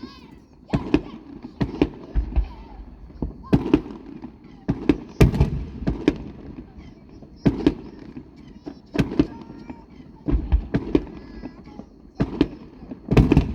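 Aerial fireworks shells bursting in an irregular run of loud bangs, about one a second, each followed by an echoing rumble.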